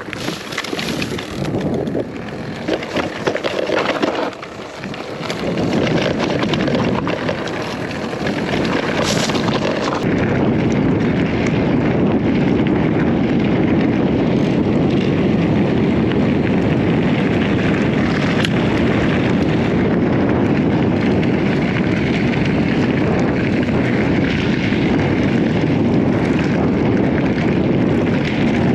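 Wind buffeting the microphone on a moving electric mountain bike. It is uneven, with knocks, for the first several seconds, then becomes a heavy steady rush from about ten seconds in.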